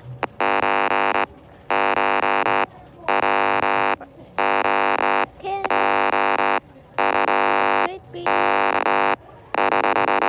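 Harsh electronic alarm buzzer sounding in repeated blasts, each about a second long with short gaps, about eight blasts in all.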